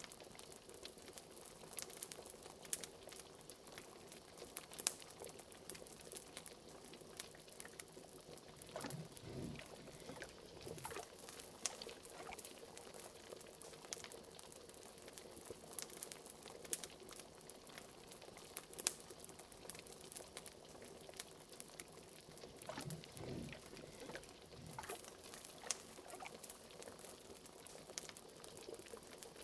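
Liquid boiling and bubbling in a pot, with many small sharp pops and crackles throughout and deeper gurgling bubbles about nine seconds in and again around twenty-three seconds.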